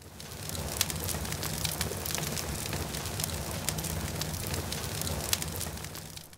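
Fire sound of the projected virtual bonfire igniting: dense crackling over a low rumble. It starts suddenly and fades out near the end.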